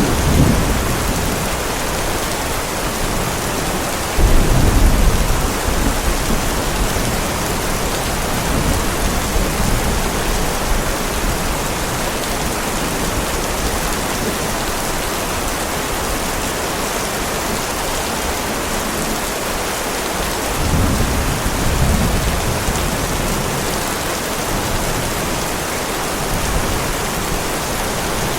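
Heavy rain falling steadily, with thunder rumbling: a sudden loud rumble about four seconds in, and softer rolls about three quarters of the way through.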